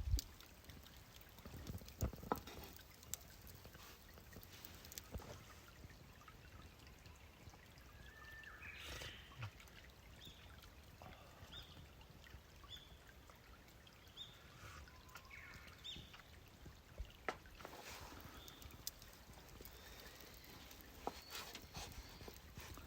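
Quiet outdoor ambience with a small bird calling in short high notes, about one a second, for several seconds mid-way, and scattered sharp clicks and knocks.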